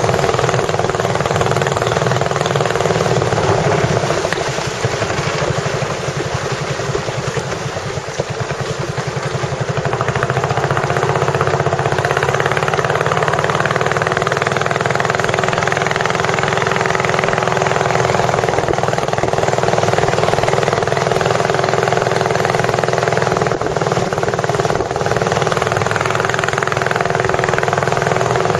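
Tourist boat's engine running steadily under way, with a constant rush of wind and water.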